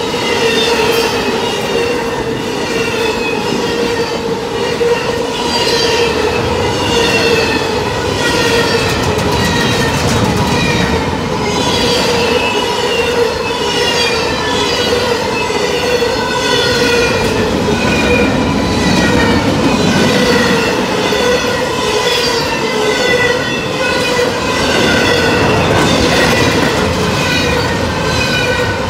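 Intermodal freight train rolling past close by, its wheels clattering in a steady rhythm, with a constant squealing tone throughout.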